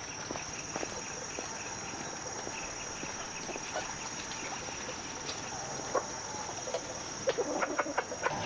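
Steady high-pitched insect drone over farmyard ambience, with rows of short chirps, scattered light knocks, and a cluster of louder short calls or knocks near the end, possibly from chickens.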